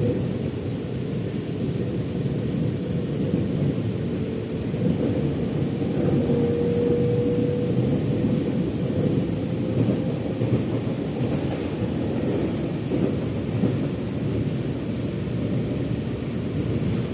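Metro train running, a steady low rumble of wheels on track heard from inside the car. A faint whine rises slightly a few seconds in, strengthens, then fades away.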